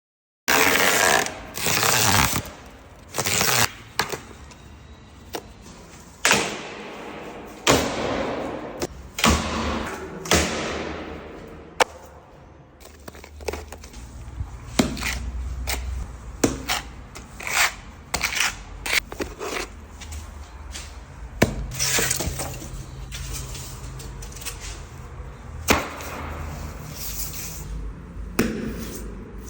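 Stone being struck and broken: irregular sharp cracks and knocks, with longer scraping noises between them.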